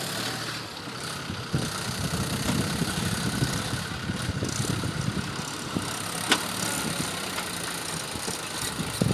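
Tractor engine running steadily with a low throb, and a single sharp click about six seconds in.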